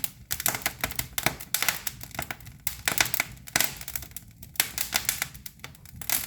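Wood fire in a cast-iron fireplace crackling with rapid, irregular sharp pops. The kindling is bamboo, and it pops like this because it is damp.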